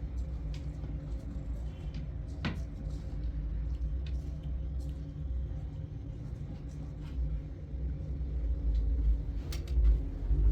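A vehicle engine running with a steady low rumble, with a few light clicks and one sharp knock about two and a half seconds in.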